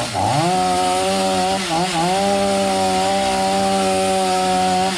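Two-stroke chainsaw running at high revs, cutting into a fallen tree. Its pitch dips and recovers twice, near the start and about two seconds in, then holds steady at full throttle.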